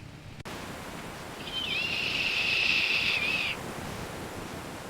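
One long animal cry, high-pitched and wavering, lasting about two seconds over a steady background hiss.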